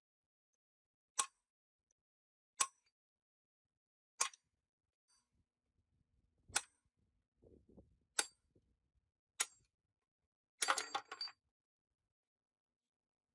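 Sharp metal clinks, six single strikes one to two seconds apart, then a short rattling run of clinks near the end: metal parts or tools being set down and handled.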